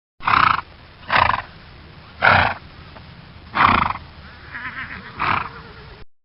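An animal giving a series of short, loud calls, five strong ones with a fainter one near the end, about a second or more apart.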